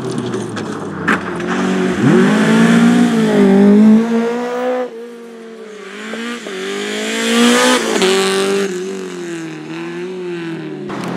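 Rally car engine under hard acceleration, its pitch climbing and dipping through gear changes, easing off about five seconds in, then rising again to a peak and falling away. A sharp crack sounds about a second in.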